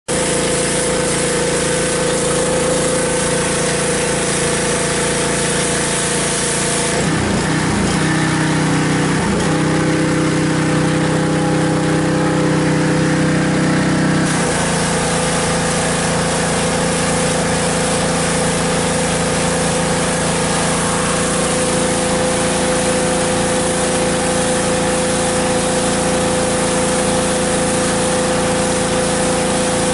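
Briggs & Stratton engine of a Husqvarna PW 3200 gas pressure washer running steadily under load. Its pitch dips and shifts about seven seconds in, then returns to the first note about halfway through.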